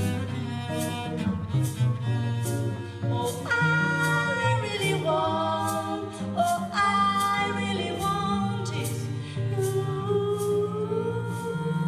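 Live band music in a passage without sung words: a gliding lead melody over held bass notes, with a steady high tick about twice a second.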